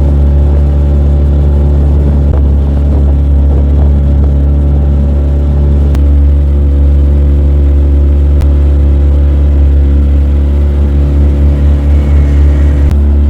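An engine running steadily at constant speed, a low drone with a stack of steady tones; its loudness wavers near the end.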